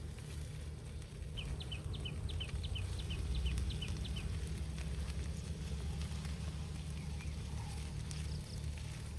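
A bird calling a quick run of short, high notes, each falling in pitch, about four or five a second for roughly three seconds, over a steady low rumble.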